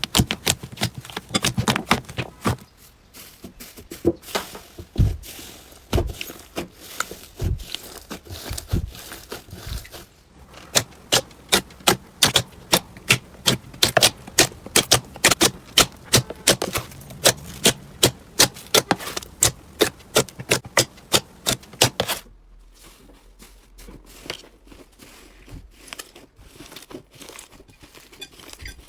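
Hands playing with slime, giving squishy presses and sharp crisp pops and clicks. In the middle the pops come in a steady run of about two to three a second; near the end they are quieter and sparser.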